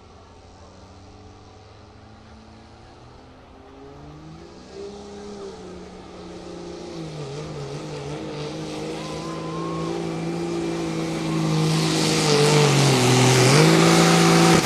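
Turbocharged diesel pickup truck under full load pulling the sled, its engine held at high revs and growing steadily louder as it comes down the track, with a brief drop in pitch near the end.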